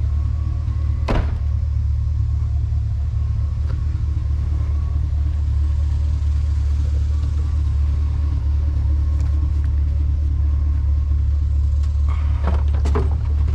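Truck running with a steady low rumble, with a sharp knock about a second in and a few more knocks near the end.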